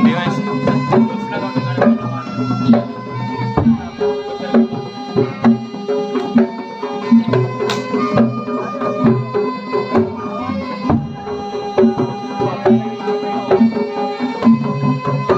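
Traditional Javanese gamelan-style music for a bantengan performance: hand drums (kendang) beating a steady rhythm over ringing gongs and metallophones.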